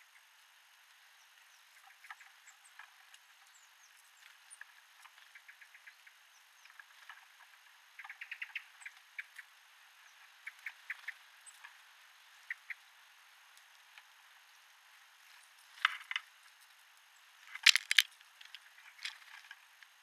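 Small birds feeding at a bird feeder: quick trains of light clicks and taps from pecking and scrabbling at the seed, with faint high chirps. Two louder sharp flurries come about three-quarters of the way through and near the end.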